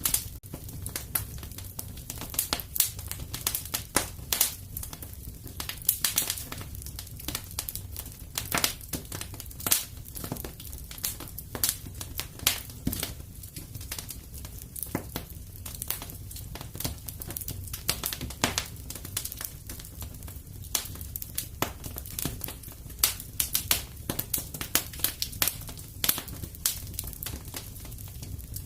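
Wood fire crackling in a fireplace: irregular sharp pops and snaps several times a second over a steady low rumble of flame.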